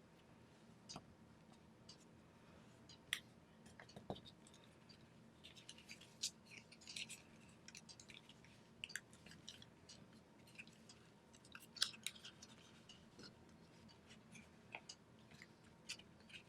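Origami paper being folded and creased by hand: soft, irregular crackles and rustles, with a sharper click about three seconds in and the loudest near twelve seconds.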